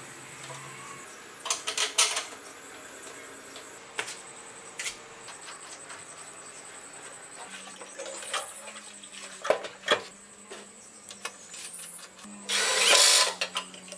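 Workshop tool sounds: scattered clicks and knocks, then a loud burst of hiss lasting about a second near the end.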